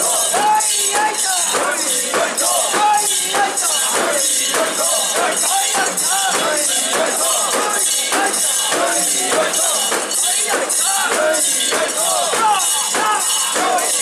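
Metal fittings and rings of a Japanese portable shrine (mikoshi) jangling in a steady rhythm, about two jingles a second, as the bearers bounce it along. Under the jangling, many bearers' voices chant in rhythm.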